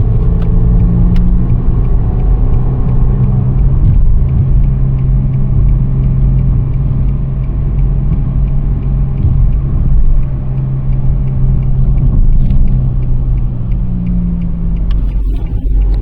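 Steady low hum with road rumble inside a 2017 Nissan Sentra SV while driving: the humming noise the car makes on the move.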